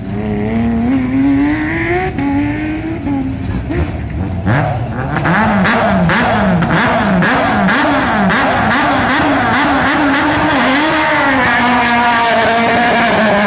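Rally car engine revving hard: one long rise in pitch over the first few seconds, then louder from about four seconds in, with quick repeated rises and falls in revs, steadying to a held note near the end.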